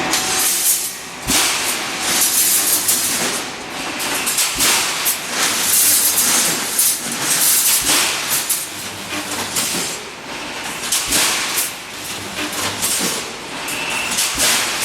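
Pneumatic wire-mesh welding machine running: repeated hissing bursts of compressed air with sharp clicks and clanks over a steady mechanical noise.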